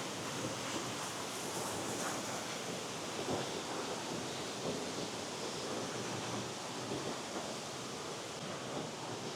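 Steady rushing of flowing water from a spring-fed stream.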